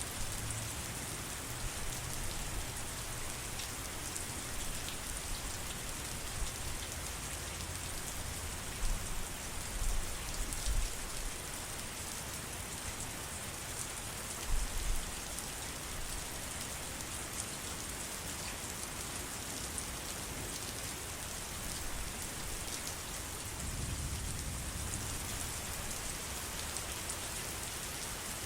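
Steady heavy rain, an even hiss with individual drops ticking through it. Brief low rumbles come a few times, about nine to eleven seconds in and again near fifteen seconds.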